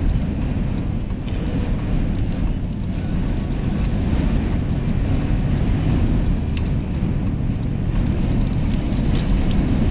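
Strong gusting wind buffeting the phone's microphone: a loud, dense rumbling noise with a few faint clicks.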